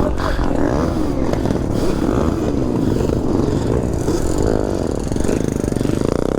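A pack of two-stroke dirt bikes and ATVs revving together, several engine notes overlapping and rising and falling, with one engine revving up sharply in the second half.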